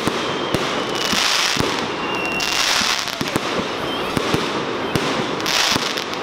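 Fireworks display going off: a dense, continuous run of bangs and crackles. Hissing bursts come about a second in, around two and a half seconds and near the end, with a few faint short whistles.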